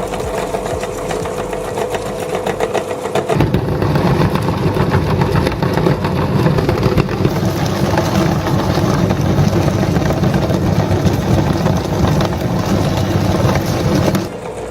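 Electric meat grinder running with a steady motor hum. Its low end gets louder about three seconds in and eases off just before the end.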